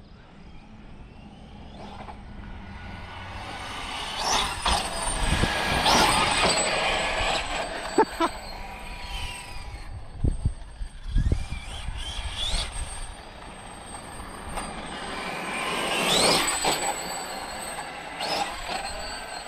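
Electric Losi 5ive-TE 3.0 1/5-scale RC truck running: its brushless motor and drivetrain whine, rising in pitch as it accelerates in three separate runs. A few sharp knocks around the middle.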